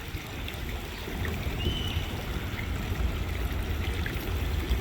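Running water, an even rushing hiss over a low, fluctuating rumble.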